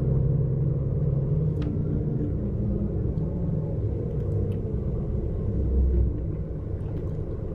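Low, steady rumble of a Scania-chassis double-decker coach's diesel engine and running gear, with a few faint clicks and a deeper swell about six seconds in.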